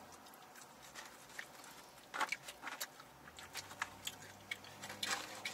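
Close-up eating sounds: chewing on fries and chicken, with scattered small clicks and rustles of a fork and cardboard takeout boxes.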